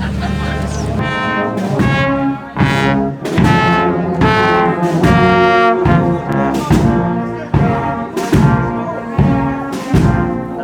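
Brass band playing a march outdoors, trombones and trumpets over a steady drumbeat that falls about every 0.8 seconds, opening on a low held note.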